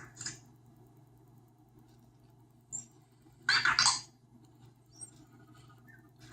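Anki Vector robot making short electronic chirps and squeaks as it moves, with a louder burst of sound about three and a half seconds in and a quick falling squeak at the end.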